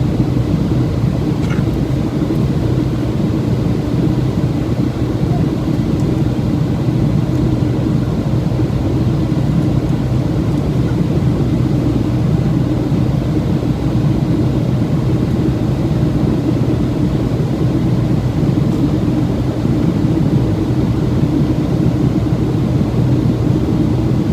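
Boeing 737-700 airliner in flight: a steady, loud low rumble of its CFM56 engines and the rush of air, unchanging throughout.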